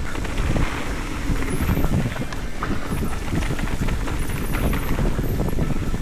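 Mountain bike riding over a rough dirt trail: wind buffeting the microphone, tyre rumble and rapid rattling knocks from the bike.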